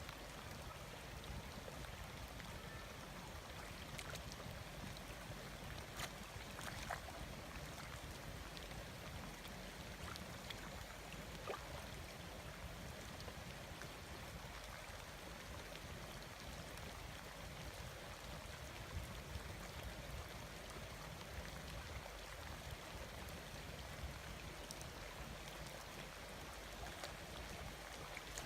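Water trickling and sloshing, with a few light splashes or knocks scattered through it.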